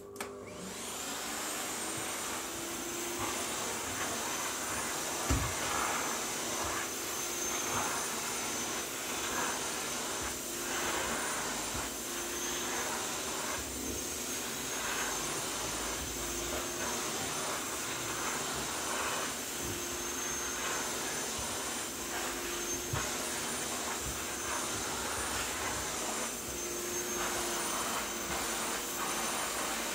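Vacuum cleaner switched on: the motor spins up within the first second, then runs steadily with a high whine. Its suction sound surges unevenly as the nozzle moves. There is one sharp knock about five seconds in.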